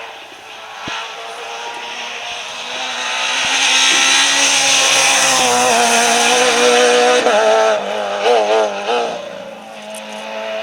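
Rally car passing at speed. The engine and road noise swell to a loud peak a few seconds in. The engine note then goes rapidly up and down several times before it fades.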